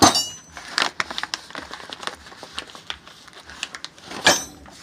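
Steel wrenches being handled and shifted in a metal toolbox drawer: irregular clinks and knocks with some rustling, loudest at the start and again about four seconds in.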